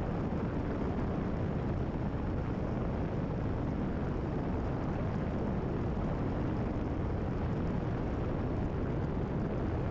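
Steady drone of a Cessna 172RG's engine and propeller in flight, heard inside the cabin, even and unchanging.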